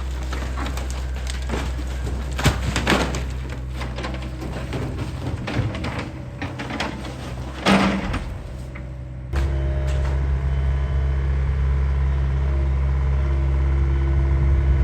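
A John Deere excavator's diesel engine running, with scattered knocks and cracks of breaking wood and debris. About nine seconds in, the engine note jumps louder and stays steady, as under heavier load.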